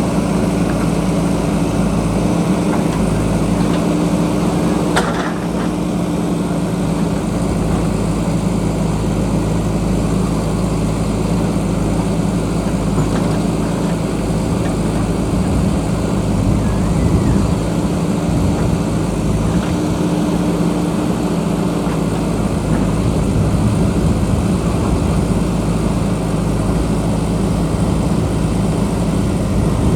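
JCB backhoe loader's diesel engine running steadily under working load, with a single sharp knock about five seconds in.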